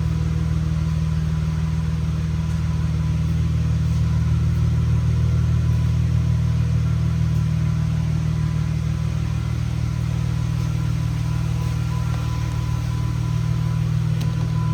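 2001 Plymouth Prowler's 3.5-litre V6 engine idling steadily.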